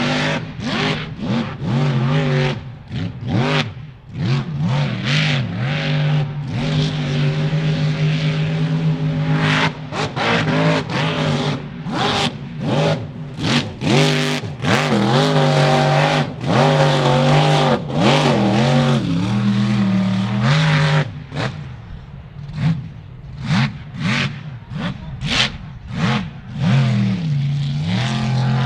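Big mud truck engine revving hard in repeated throttle blasts, the pitch climbing and dropping again and again.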